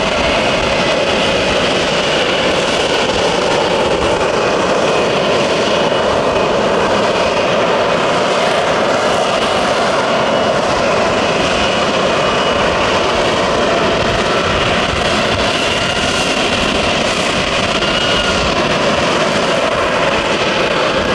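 F-35B's Pratt & Whitney F135 jet engine running loud and steady, a dense even noise with a faint high whine over it, holding without rising or falling.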